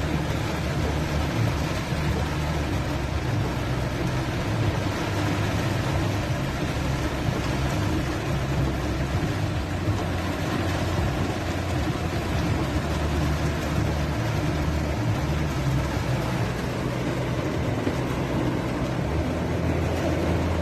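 A motor vehicle's engine running steadily, with a constant hiss of noise over it.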